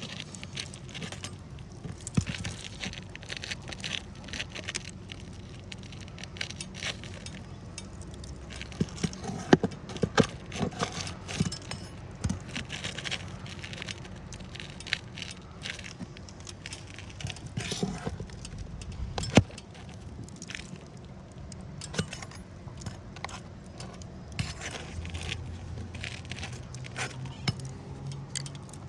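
Metal roof snake being worked under asphalt shingles to unseal them and pull nails: irregular scraping, clinking and sharp metallic clicks, with the loudest snaps about ten and nineteen seconds in.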